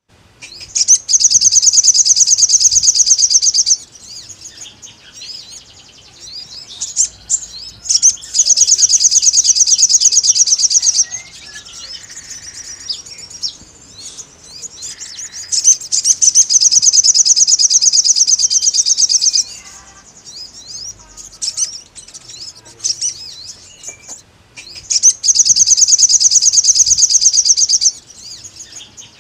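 Wild sogon bird in full song: loud, very fast high-pitched trills lasting about three seconds each, four times, with softer chirps between. It is a challenge song calling out a rival.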